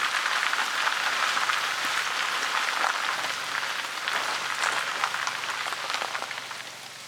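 Steady rainfall, an even hiss with many small individual drop impacts ticking through it, easing off slightly toward the end.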